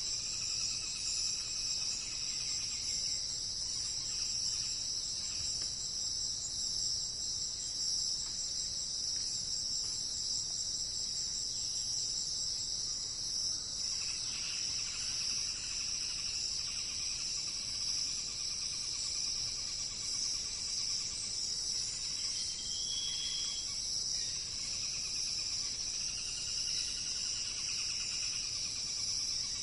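Steady, high-pitched chorus of insects trilling without a break, with faint bird calls beneath it. One short, clear whistled note comes about three-quarters of the way through.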